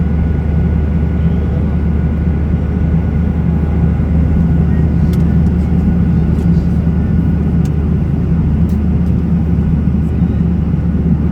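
Steady drone of an airliner cabin in flight: engine and airflow noise, deep and even, with a faint steady whine above it.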